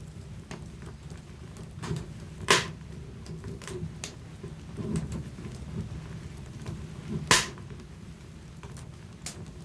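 Wood fire burning in a fireplace: a steady low rumble of flames with scattered crackles and snaps, two loud pops about two and a half seconds in and again near seven seconds.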